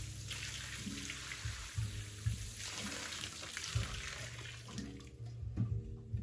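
Water running steadily, as from a tap or being poured, stopping about five seconds in, over background music with a steady beat.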